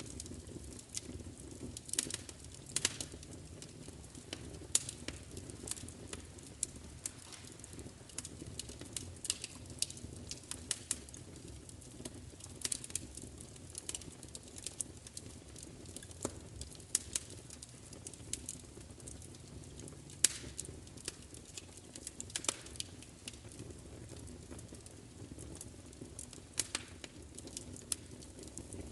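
Wood fire crackling: irregular sharp pops and snaps, a few a second, with one louder pop about twenty seconds in, over a steady low rumble.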